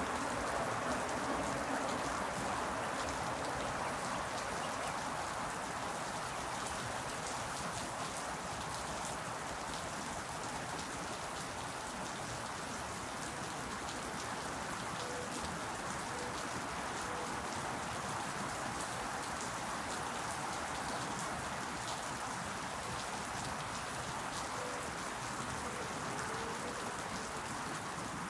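Steady rain falling, with many individual drops heard as light ticks over an even hiss.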